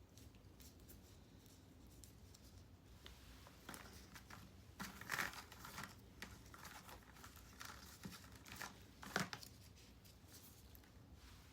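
Faint rustling and crinkling with a few short tearing sounds, the loudest about five and nine seconds in: adhesive tape being torn and handled to secure a nasogastric tube.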